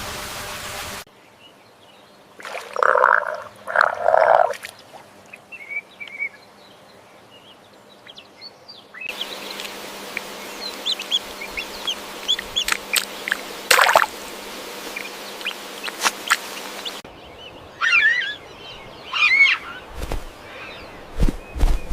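A run of spliced animal-call clips: two loud calls about three and four seconds in, then scattered short chirps and clicks, and several quick rising-and-falling bird-like calls near the end.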